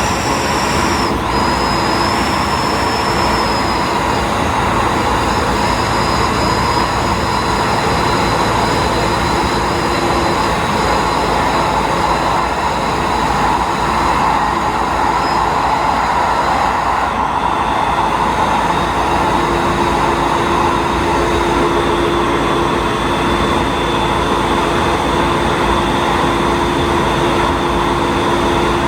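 Diesel railcar running on the Nemuro Main Line, heard from inside at the front: a steady mix of engine and wheel-on-rail noise. Its whining tones shift in pitch about a second in and again about two-thirds of the way through.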